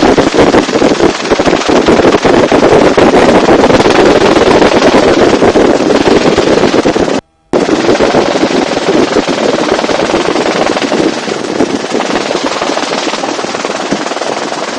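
Helicopter rotor and turbine noise in the open-sided cabin, loud and steady with a rapid chop of the blades, as the helicopter descends; it cuts out briefly about seven seconds in.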